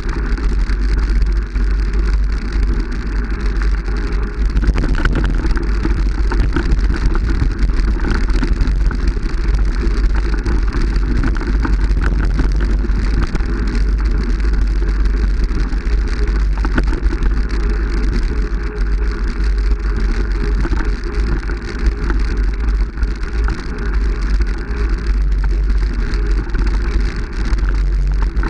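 Steady, loud rushing noise of a vehicle on the move, with heavy low rumble of wind buffeting the microphone.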